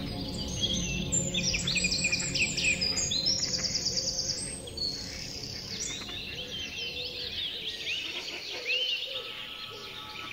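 Songbirds chirping and trilling in quick overlapping phrases, busiest in the first half, over a steady ambient music drone.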